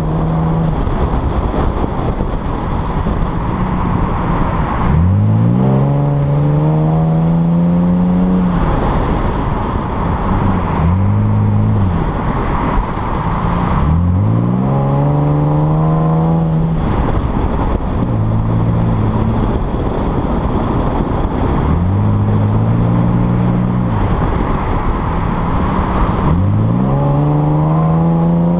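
Chevrolet Camaro engine pulling up through the revs three times, about 5, 14 and 26 seconds in, with shorter rises and falls between as the throttle comes on and off. Steady wind and road noise rushes underneath, picked up by a camera mounted outside on the car's flank.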